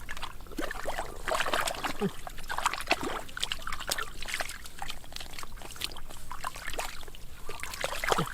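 Water splashing and trickling in irregular bursts, as if from hands, a net or fish moving in shallow water.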